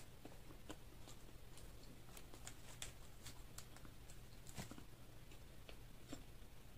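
Faint mouth sounds of chewing French fries: soft, irregular small clicks and smacks over a low steady hum.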